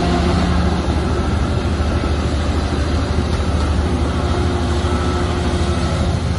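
Heavy diesel engine of earthmoving machinery running steadily, a deep continuous drone.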